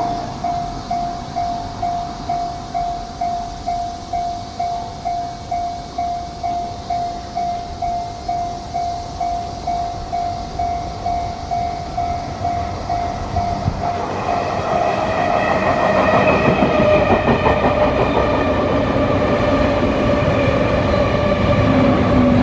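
A warning bell sounds as a single tone pulsing evenly, nearly twice a second, and fades out partway through. Then a Sotetsu electric train arrives and brakes, its motor whine falling slowly in pitch as it grows louder.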